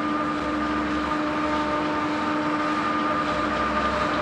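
Steady machinery hum in an ice factory, a continuous drone with a few held tones over a mechanical noise.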